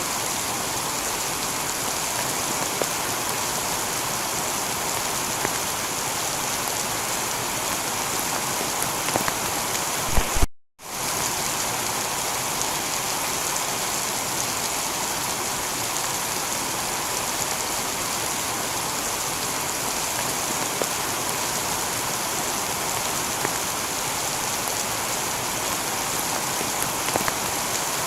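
Steady heavy rain falling on a tiled roof, with scattered drop ticks. About ten seconds in, the sound cuts out for a split second and comes straight back.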